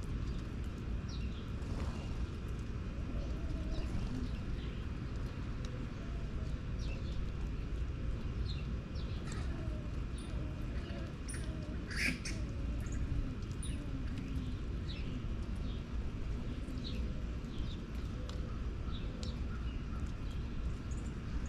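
Wild birds chirping outdoors: many short, high calls scattered throughout, with one louder call about halfway through, over a steady low rumble.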